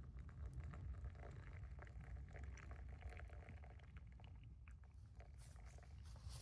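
Faint, irregular crackling of a campfire over a steady low rumble.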